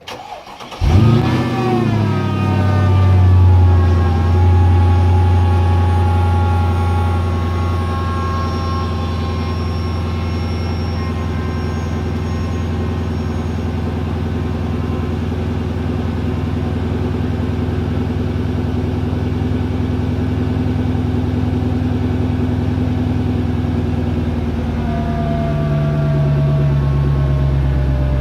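Mercedes-Benz E55 AMG 5.4-litre V8 cold start through modified stock mufflers with the secondary catalytic converters deleted: a brief crank, the engine catches under a second in and flares up, then settles into a steady fast cold idle that steps down slightly near the end.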